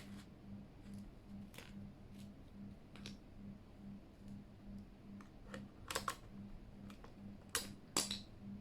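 Scattered plastic clicks and clacks from a mechanical keyboard and its keycaps being handled, a few at a time with the loudest near the end, over a faint low hum that pulses evenly.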